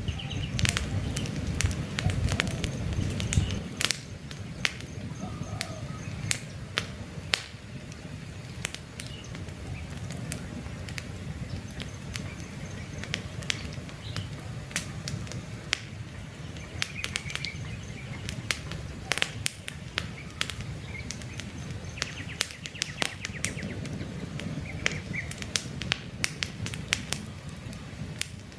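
Wood campfire crackling, with frequent sharp pops over a low rumble of flames that is louder for the first few seconds. A few short bird chirps come through now and then.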